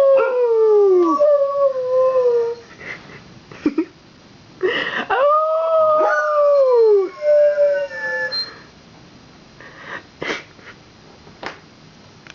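Pet dogs howling in response to passing fire truck sirens: two long howls, each sliding down in pitch, with a pause between. A few brief yips follow near the end.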